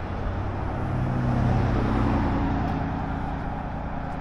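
A car engine running nearby, its pitch and level climbing for about a second and then easing back off.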